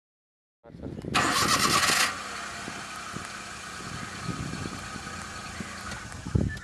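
Small car engine being cranked and started. After about half a second of silence, a loud, harsh stretch comes about a second in. It then settles into a steadier engine sound with scattered knocks.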